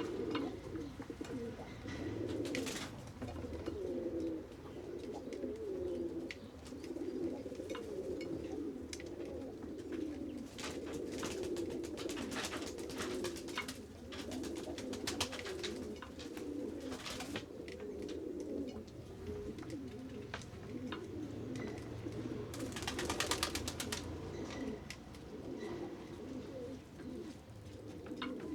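Several pigeons cooing continuously, overlapping low wavering calls, with scattered sharp clicks and taps and a short flurry of rapid clicks about three-quarters of the way through.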